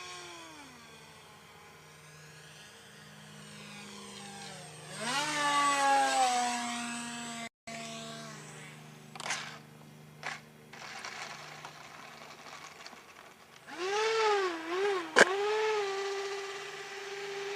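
The 64 mm electric ducted fan of an RC jet whining, its pitch sweeping up and down as the model passes and the throttle is worked; it is loudest on a pass about five seconds in and again near the end, where it settles into a steady whine. A sharp click sounds about fifteen seconds in. The LiPo is nearly drained and the model is coming in to land.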